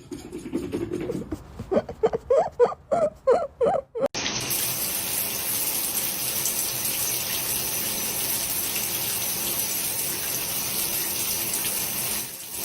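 A few seconds of short, repeated pitched vocal sounds. Then, about four seconds in, a steady rush of running water from a tap starts suddenly and runs on evenly.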